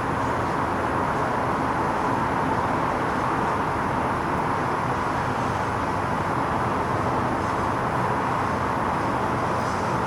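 Steady, even background noise with no thunderclap or other distinct sound.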